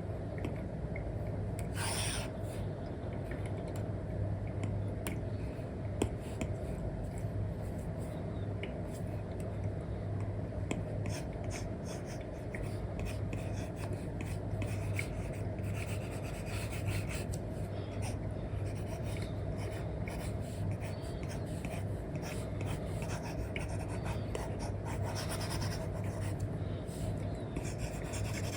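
Apple Pencil nib stroking and tapping on a paper-like matte screen film over an iPad. The short scratchy strokes and light taps come irregularly over a steady low background hum.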